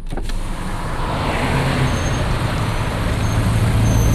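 Road traffic noise from slow-moving vehicles: a steady low engine hum under a rushing haze, slowly growing louder. There are a couple of clicks right at the start.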